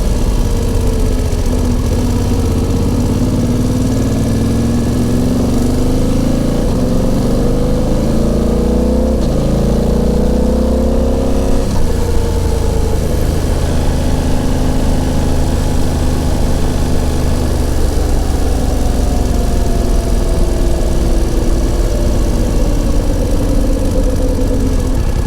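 BMW F900XR motorcycle's parallel-twin engine and exhaust, heard from the rider's seat with wind noise. The revs climb for several seconds, drop suddenly about twelve seconds in, then run steadier with slow rises and falls in pitch.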